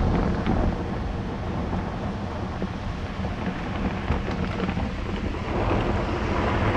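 Heavy thunderstorm: rain pouring down steadily with a low rumble of thunder underneath.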